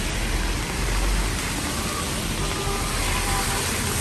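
Heavy rain pouring down as a steady hiss, with a car driving by on the wet road, its low rumble strongest in the first second or so.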